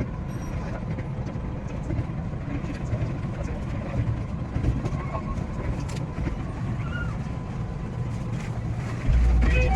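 Running noise of a JR West 227 series electric train heard from the driver's cab: a steady low rumble with faint whining tones. Near the end a much louder low rumble sets in.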